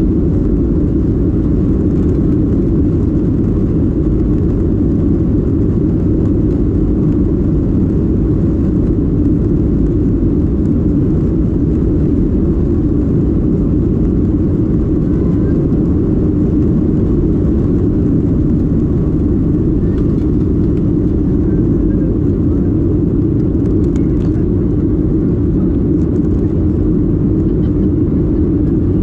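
A loud, steady low rumble that stays unchanged throughout.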